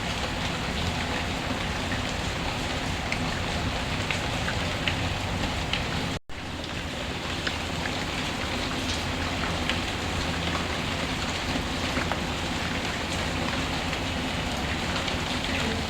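Steady rain with scattered faint clicks through it. About six seconds in the sound cuts out for a split second, then resumes.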